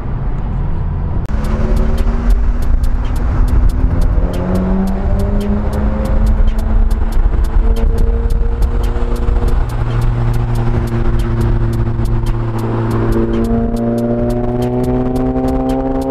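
Car engines running under way in traffic, their pitch slowly rising as they accelerate. A steady, fast ticking, about three or four ticks a second, runs alongside from about a second in.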